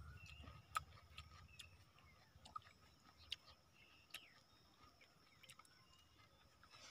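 Near silence with scattered faint clicks from chewing a small raw onion and from a hand working soaked fermented rice in water in a clay pot.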